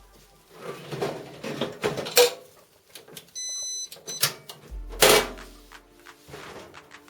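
Hard knocks and clatter of objects being handled, with one short electronic beep lasting under a second near the middle.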